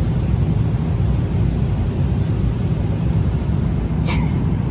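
Steady low rumble and hiss of a Boeing 777-300ER's passenger cabin, with a brief higher-pitched sound about four seconds in.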